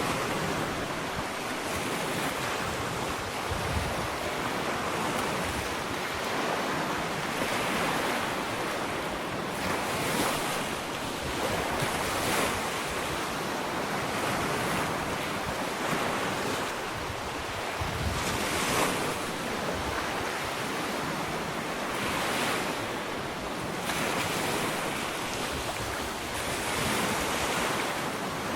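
Ocean waves breaking and washing up on a sandy beach, a steady surf hiss that swells with each wave every few seconds.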